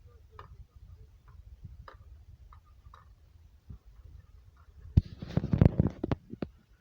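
Low rumbling with scattered light ticks and clicks, then about five seconds in a loud burst of clattering and knocking for about a second and a half: things rattling and knocking together as the ground shakes in an earthquake.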